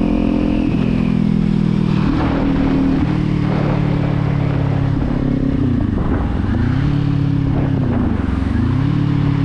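Motorcycle engine running under way at steady revs. The revs dip and climb back about six seconds in and again near the end, as with a roll-off of the throttle or a gear change.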